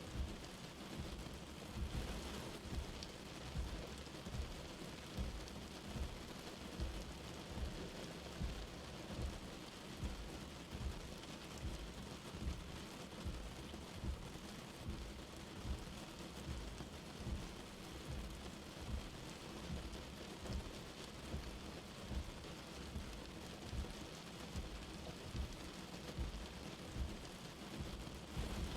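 Steady light rain falling, an even hiss, with a low rumble pulsing underneath about once a second.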